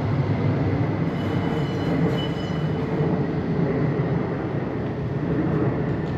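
Steady low rumble of passing vehicles in a city street, with a faint high whine over it.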